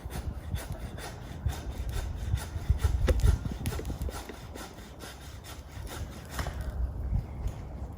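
Hand saw cutting firewood in steady back-and-forth strokes, easing off near the end.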